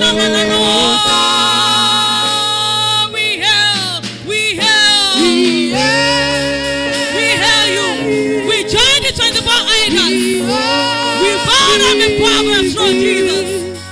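Gospel worship music: singing with vibrato, long held notes and sliding runs over steady held chords.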